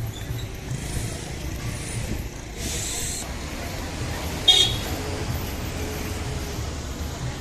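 A diesel engine running with a steady low throb, with a short sharp high-pitched sound about four and a half seconds in.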